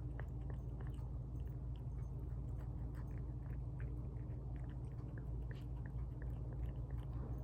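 Small pets eating wet tuna from a bowl: quick, irregular chewing and lip-smacking clicks over a steady low hum.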